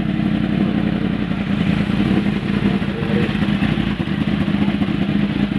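Yamaha R1M's crossplane inline-four running through an SC-Project aftermarket exhaust, idling steadily at a constant engine speed.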